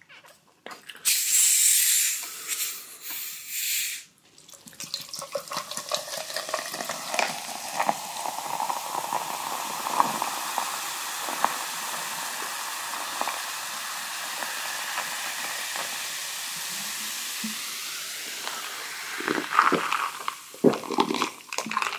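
A carbonated soft drink opened with a loud hiss lasting a few seconds, then poured, fizzing steadily with fine crackles for about fifteen seconds.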